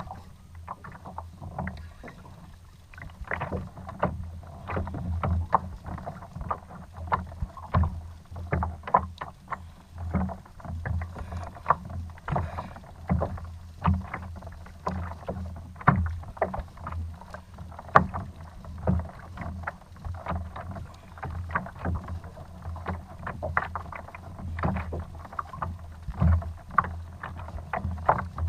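Water slapping and knocking against a Hobie kayak's plastic hull in an irregular stream of sharp knocks, several a second, over a steady low rumble.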